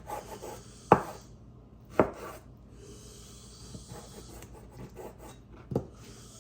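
Knife cutting chicken into bite-size pieces on a cutting board: three sharp knocks of the blade on the board, with quieter scraping and slicing in between.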